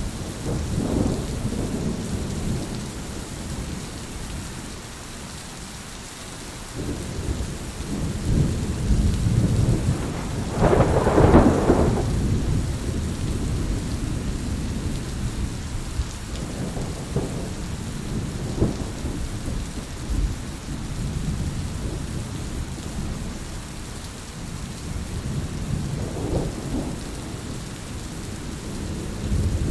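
Steady rain falling with rolling thunder, low rumbles swelling and fading several times, the loudest peal about a third of the way through.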